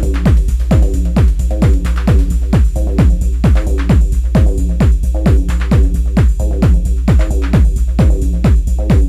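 Techno played live on an Elektron Analog Rytm drum machine: a steady four-on-the-floor kick drum, each hit dropping in pitch, about two a second, with short high ticks between the kicks over a held low bass tone.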